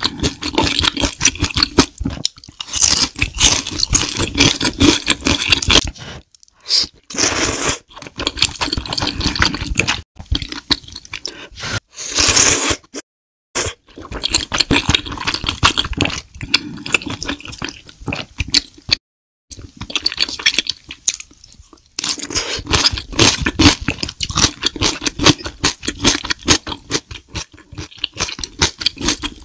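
Close-miked eating sounds: a person chewing food, with crunching and wet mouth sounds in dense runs, broken a few times by brief silent gaps.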